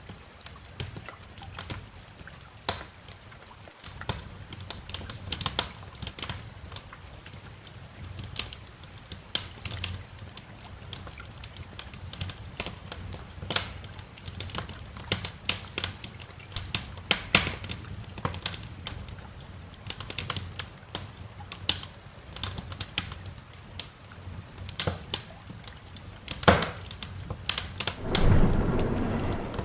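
Wood fire crackling, with many irregular sharp pops and snaps over a faint steady hiss of rain. Near the end there is one loud crack, then a low rumble of thunder.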